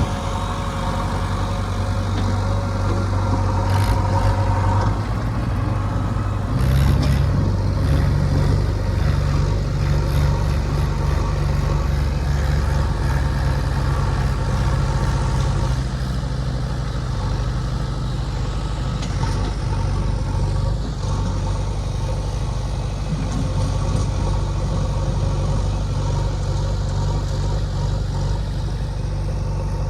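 Diesel engine of heavy earthmoving machinery running continuously, its pitch shifting up about a fifth of the way in. A few sharp knocks come around the same time.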